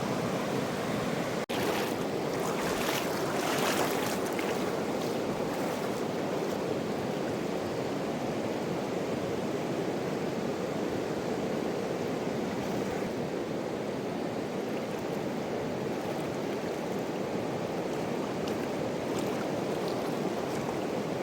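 Fast-flowing mountain river rushing steadily, with a few brighter splashes in the first few seconds.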